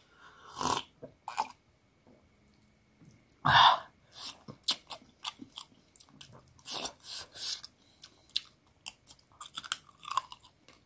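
A person chewing and crunching pieces of chicken on the bone, close to the microphone: irregular crunches and wet mouth smacks, with one louder crunch about three and a half seconds in.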